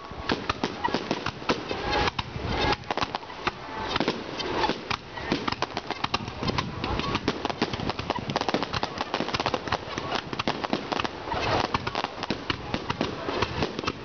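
Fireworks crackling: a dense, unbroken run of small sharp pops and cracks, with voices from the crowd mixed in.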